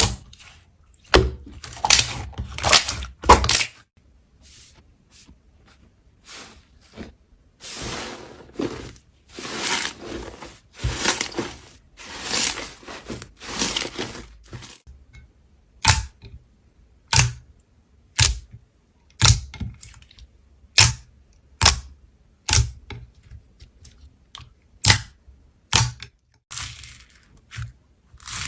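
Slime being squeezed and pressed by hand: bursts of crackling, squishing noise in the first half, then a string of separate sharp clicks and pops about a second or so apart.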